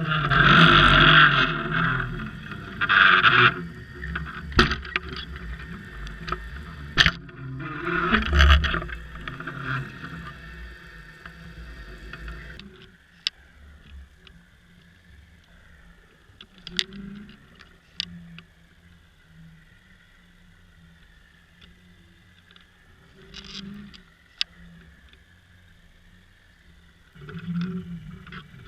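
Water noise picked up by a camera in its underwater housing: loud churning and rushing water with sharp clicks for about the first twelve seconds, then a sudden drop to a quiet steady hum with occasional clicks.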